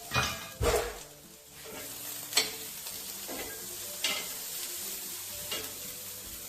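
Beef sizzling in a hot cast iron pan, with a utensil clacking and scraping against the pan every second or two as it is stirred.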